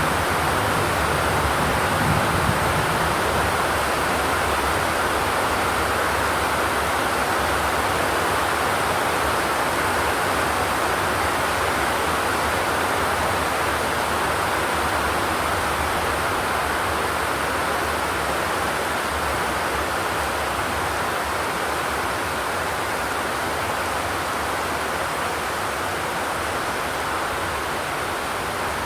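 Steady rain drumming on a zinc sheet-metal roof, an even hiss without thunder.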